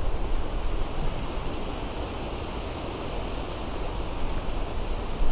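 Gusty wind buffeting the microphone: a steady rushing with a heavy low rumble that eases in the middle and picks up again near the end.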